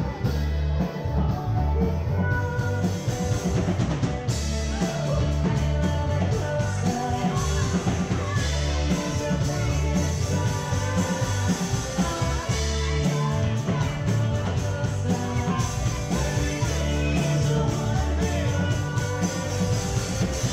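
Rock band playing: a singer over drum kit, heavy bass and guitar.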